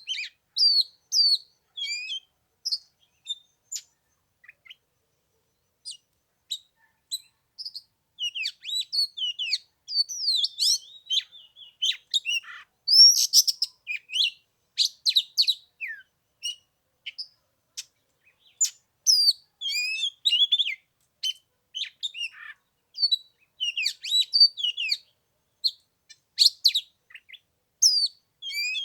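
Oriental magpie-robin singing: a varied run of short, high whistled notes and chirps that glide quickly up and down. The song is sparse for the first several seconds, then turns dense and continuous.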